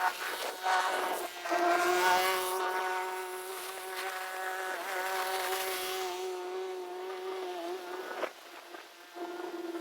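A motor whining at a steady pitch, with a rushing hiss over the first few seconds; the whine cuts out about eight seconds in and starts again near the end.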